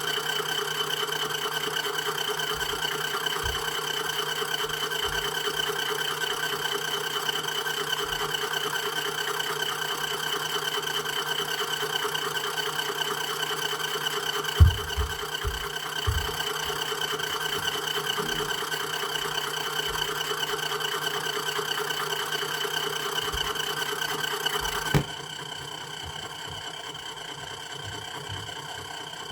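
Mini washing machine spinning: a steady motor hum with a constant high whine, a couple of knocks about halfway, then the sound drops suddenly to a quieter hum near the end.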